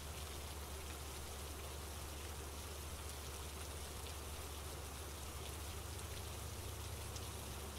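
Steady rain falling, an even patter with faint scattered drop ticks and a low steady rumble beneath.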